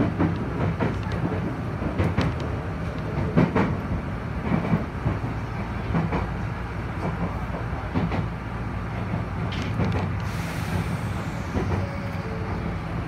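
Enshu Railway red 'Akaden' electric train running along elevated track, heard from inside the car behind the cab: a steady rumble with irregular wheel clicks over the rail joints.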